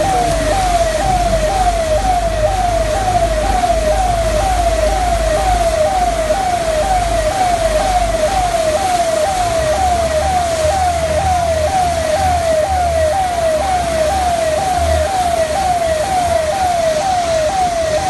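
An electronic siren or alarm sounds without a break, a tone falling in pitch and repeating about twice a second. Beneath it are a steady rain hiss and a low engine rumble.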